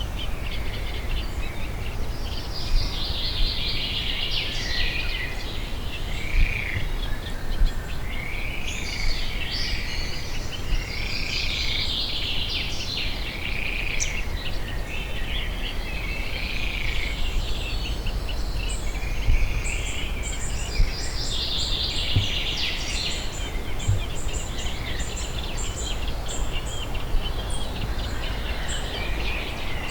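Several songbirds singing over a steady low rumble of background noise: warbling phrases made of repeated short arched notes, joined in the second half by a run of thin, high, evenly spaced notes.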